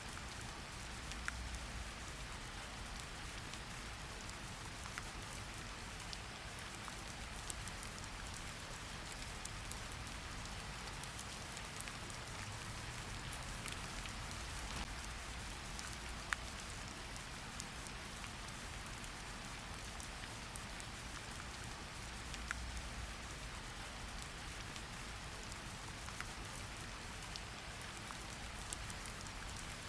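Steady rain falling, an even patter with scattered sharper drips landing on a surface, the clearest about sixteen seconds in.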